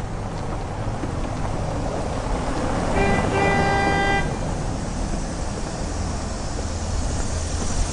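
A vehicle engine rumbles at a steady low pitch, and about three seconds in a horn honks: a short beep, then a longer one lasting about a second.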